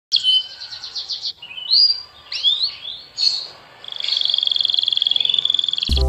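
Birds singing: a fast trill of repeated high notes, then several slurred whistled notes, then a long, even, rapid trill from about four seconds in.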